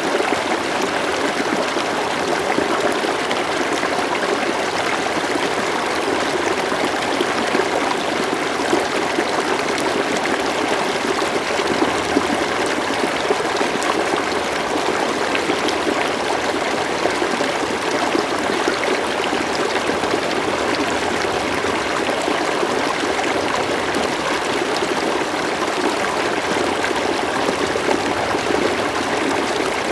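River water flowing and trickling steadily, an even rushing with no other sounds.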